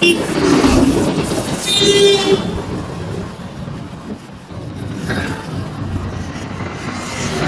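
Road traffic noise with a vehicle horn honking briefly about two seconds in.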